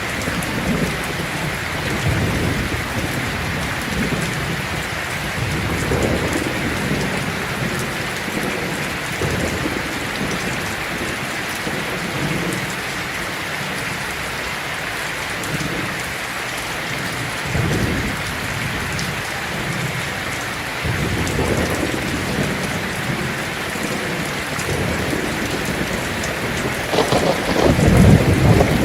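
Heavy rain drumming steadily on a tin roof, with rolls of thunder rumbling low several times and a louder roll building near the end.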